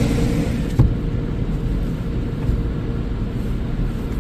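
Automatic car wash machinery heard from inside the car: a hissing spray or blower stops with a knock about a second in, leaving a steady low rumble.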